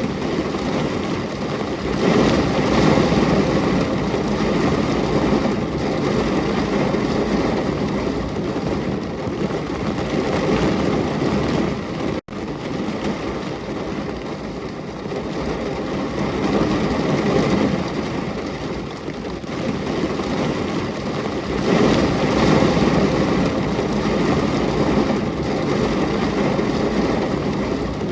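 Steady heavy rain pouring down, swelling louder a couple of times, with a sudden momentary cut about twelve seconds in, like a loop splice.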